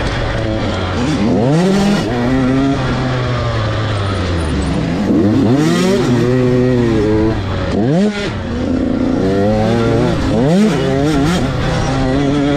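Motocross dirt bike engines revving hard, the pitch climbing and dropping back over and over as the bikes accelerate, shift and come off the throttle around the track.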